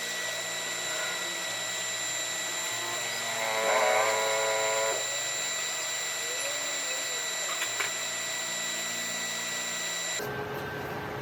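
A small electric power tool running steadily, with a louder, wavering whine for about a second and a half around four seconds in. The sound changes abruptly near the end.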